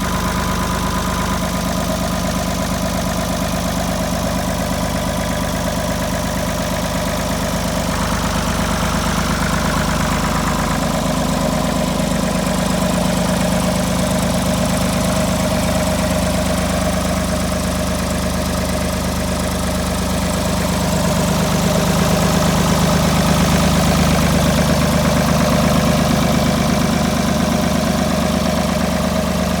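Ford 4610 tractor's three-cylinder diesel engine idling steadily, getting a little louder about two-thirds of the way through.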